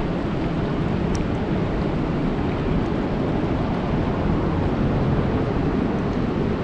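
Steady rain falling on a lake: an even rushing hiss, with a few faint sharp drip ticks, one about a second in.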